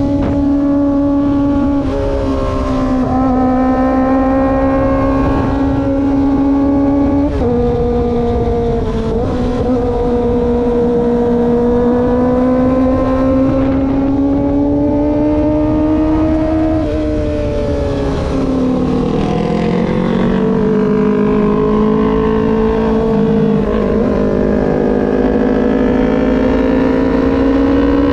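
Kawasaki ZX25R's 250 cc inline-four engine pulling at high revs while riding, its high-pitched note shifting in steps at gear changes a couple of times in the first ten seconds. Past the middle the revs drop and waver, then climb steadily again near the end, over a low rush of wind.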